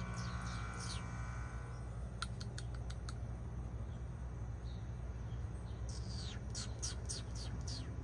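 A bird calling in quick series of short falling notes, about five or six a second, in the first second and again from about six seconds in, with a few sharp ticks in between. A steady low hum runs underneath.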